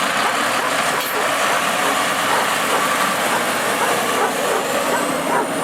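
Automated side-loader garbage truck running, a steady mechanical noise, with a thin high whine rising in pitch near the end.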